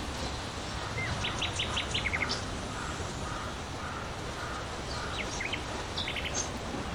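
Steady wind noise in a forest, with a songbird chirping in quick runs of short, high notes, about a second in and again near the end.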